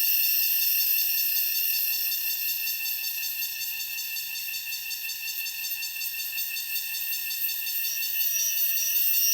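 Cicadas buzzing in a steady, high-pitched chorus that dips a little in the middle and swells again near the end.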